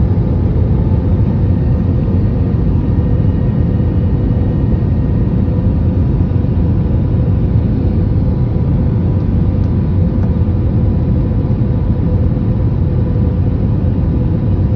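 Steady airliner cabin noise on approach: a loud, even rumble of jet engines and airflow, with faint steady hums above it, unchanging throughout.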